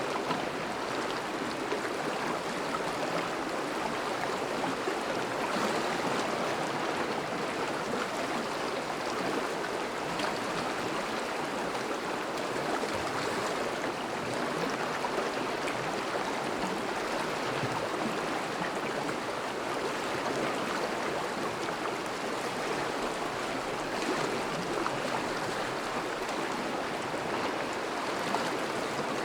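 Thawing river flowing over a shallow bed: a steady rush of running water with fine bubbling texture.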